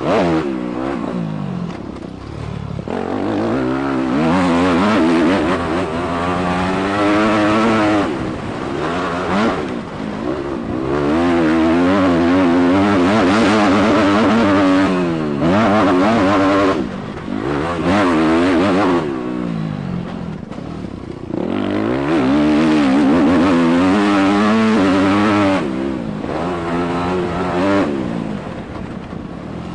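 A motocross bike's engine is ridden hard, revving up and falling back over and over. Its pitch climbs under throttle and drops off, with short dips where the throttle is shut for jumps and corners.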